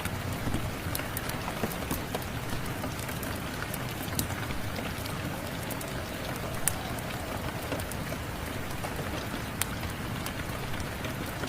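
Steady rain, with a wood fire crackling: scattered sharp pops, a few louder ones, over the even rush of the rain.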